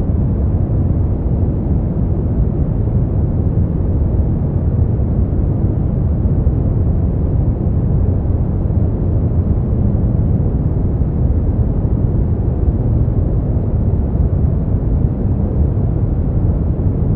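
Steady generated noise from a sleep-aid noise track, unchanging throughout. Its weight sits in the low end, so it sounds deep rather than hissy.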